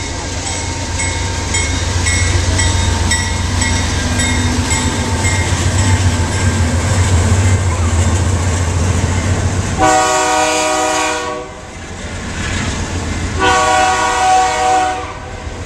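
BNSF freight train passing close by: the diesel locomotives' heavy engine rumble goes by, then freight cars rolling past with regular clicking of wheels over the rail joints. About ten seconds in, a train horn sounds a long blast, and it sounds again about three seconds later.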